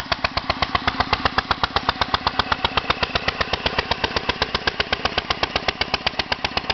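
International Harvester 3–5 hp stationary engine running steadily, with an even, rapid beat of about eight strokes a second.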